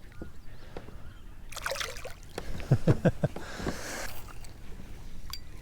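Water splashing and sloshing beside a kayak, with a run of dull, loud knocks about halfway through and a short splash after them.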